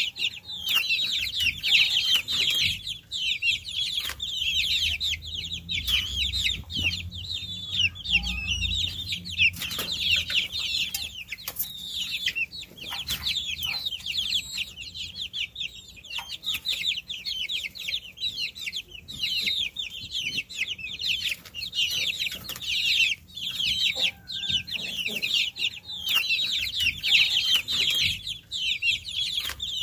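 A brood of baby chicks peeping continuously, many high, short chirps overlapping without a break, with scattered faint clicks among them.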